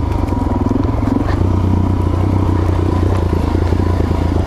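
Suzuki DRZ400S single-cylinder four-stroke engine idling steadily. The bike has been running poorly, which the rider thinks may come from something in the carburetor.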